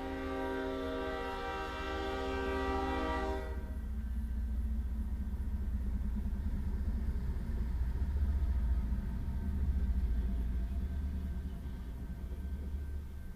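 BNSF geometry train passing: its locomotive horn sounds a steady chord that cuts off about three and a half seconds in, followed by the train's low, steady rumble.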